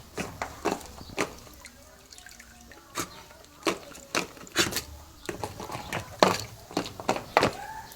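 A dog moving about in a swimming pool, its paws slapping and splashing the water in quick, irregular splashes, with a short lull about two seconds in.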